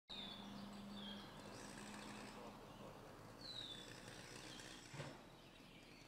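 Faint outdoor ambience with a few short, high, down-slurred bird chirps: a pair near the start and another pair about three and a half seconds in. A low steady hum runs through the first couple of seconds, and there is a brief tap about five seconds in.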